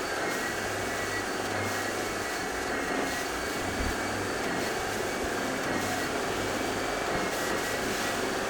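Carpet-cleaning vacuum machine running steadily: a constant rush of air with a thin high whine from the motor.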